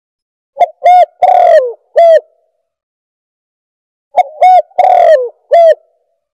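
Spotted dove (tekukur) cooing, a recorded call played as a bird-caller lure: two phrases of four notes each, a few seconds apart, the third note of each longer and falling in pitch.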